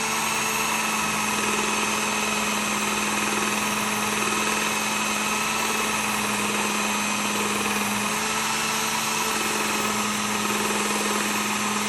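Work Sharp Ken Onion Elite belt sharpener with its grinding attachment running steadily, a motor hum with belt noise, as a knife blade is polished on a compound-dressed stropping belt.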